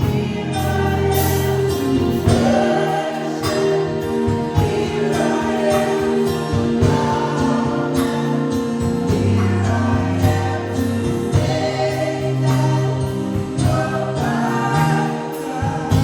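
Gospel worship music: voices singing together over a band with bass, keyboard and a steady drum beat.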